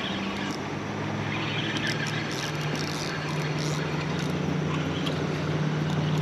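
Boat motor humming steadily, its pitch stepping down slightly about two seconds in.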